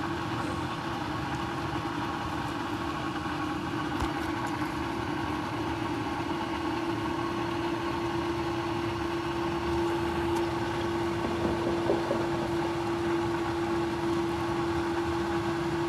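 A motor running steadily with a constant mid-pitched hum, which grows a little stronger about ten seconds in.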